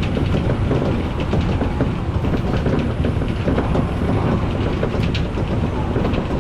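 Odakyu electric commuter train running along the line: a steady, loud rumble of steel wheels on rail with irregular clicks from the track, one sharper about five seconds in.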